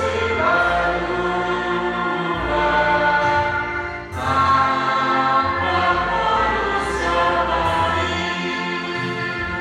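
A group of voices singing a hymn in several parts over a steady low bass accompaniment, holding long notes, with a brief break between phrases about four seconds in.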